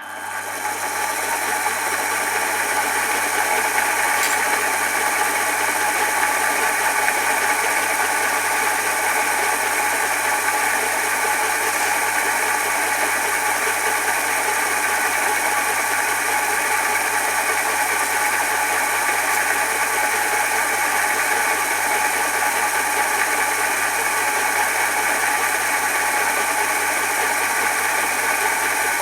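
Milling machine running steadily with a continuous mechanical hum and whine, switched on about the start and coming up to speed within a second or two.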